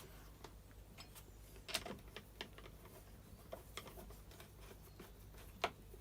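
Light, irregular clicks and taps of small parts being handled during reassembly of a strimmer, with two sharper knocks, one about two seconds in and one near the end.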